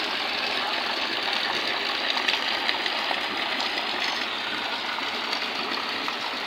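Heavy downpour: a steady, even hiss of rain splashing into standing water on a flooded courtyard.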